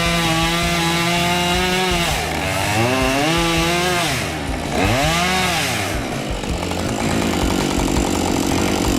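Chainsaw running at full throttle with a steady high engine note. Its pitch dips and recovers twice as the chain bites into the wood. For the last few seconds it cuts steadily with a rougher, noisier sound.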